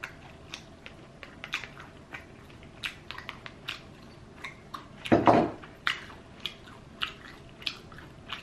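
Close-up eating sounds of Popeyes fried chicken being bitten and chewed. Its crispy crust crackles in short, irregular crunches, with one louder crunch about five seconds in.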